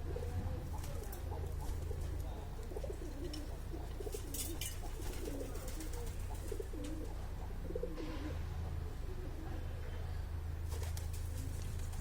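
Pigeon cooing: a run of low, wavering coos that fade out after about eight seconds, over a steady low hum.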